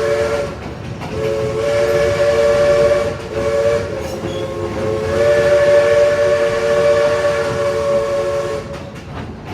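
Three-note chime steam whistle of East Broad Top No. 16, a 1916 Baldwin 2-8-2 Mikado, blowing in three blasts. A short one ends about half a second in, then come two long ones, the last stopping just before the end. The rumble of the train running lies underneath.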